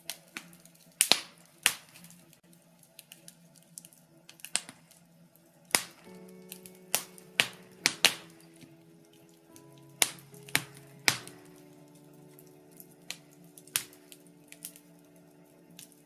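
Birch logs burning in a fireplace, crackling with irregular sharp pops and snaps. Several come close together from about six to eight seconds in and again around ten to eleven seconds.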